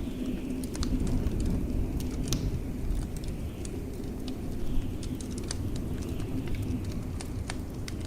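Wood fire crackling with many small sharp pops, scattered unevenly, over a steady low rumble of blizzard wind.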